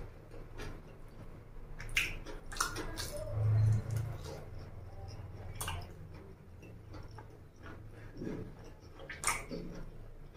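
A man chewing saucy honey chicken with his mouth closed, with wet squishy mouth sounds and sharp clicks scattered throughout, and a short low sound about three and a half seconds in.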